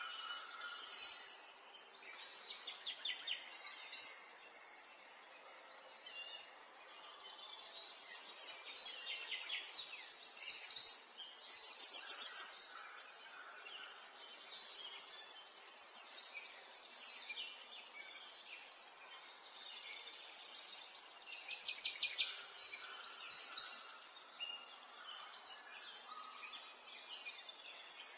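Songbirds singing, with quick high chirps and trills in short bouts one after another, over faint outdoor background noise.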